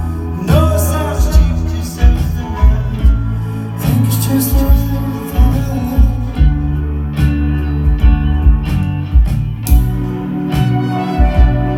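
A live band plays an instrumental passage: a steady kick-drum beat with sustained bass and guitar notes.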